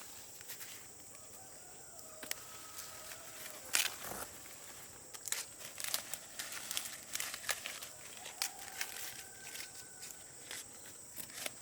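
Scattered rustling and sharp crackling clicks, with faint drawn-out calls of chickens in the distance and a steady high-pitched hum.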